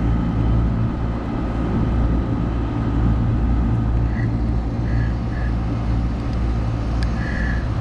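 Trane R22 outdoor condensing unit running, its compressor and condenser fan giving a steady low hum and rumble.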